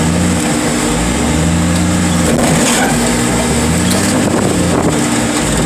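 Loader's engine running with its revs rising and falling, with a few faint knocks.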